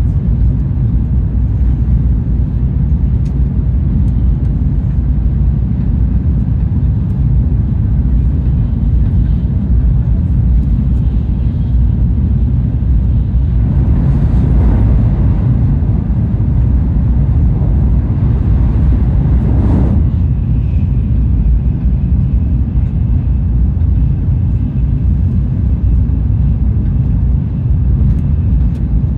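Cabin noise of a Shinkansen bullet train running: a steady low rumble. A brighter rushing noise swells for about six seconds midway, and a faint thin high tone comes in after it.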